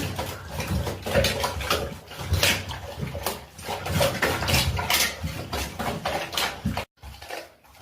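A dog chewing and gnawing on a natural chew, with irregular crunches and knocks. The sound cuts out abruptly for a moment near the end.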